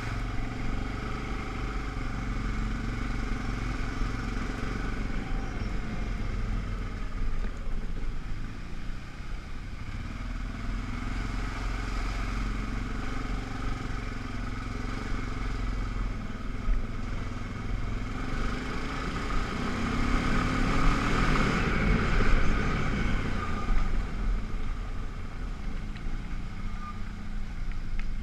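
ATV engine running steadily, with the revs rising and falling and the sound growing louder around twenty seconds in.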